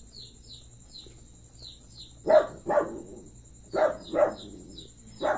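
A dog barking in three quick double barks about a second and a half apart, over a steady run of small high chirps repeating about three times a second.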